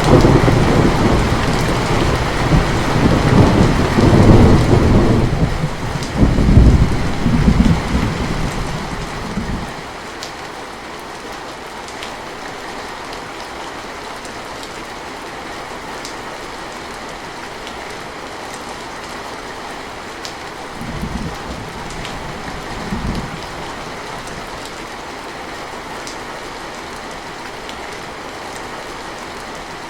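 Steady heavy rain with rolling thunder: a long, loud rumble swells twice and dies away over the first ten seconds, leaving the even hiss of rain. Two brief, fainter rumbles come about two-thirds of the way through.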